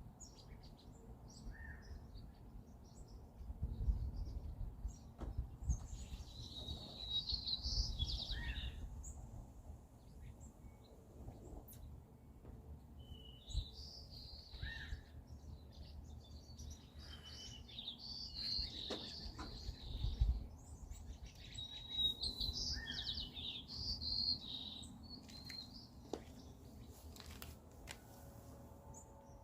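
Small songbirds chirping and twittering, several calls overlapping, in clusters with short lulls between. A low rumble comes and goes underneath and is loudest about 4 s and 20 s in.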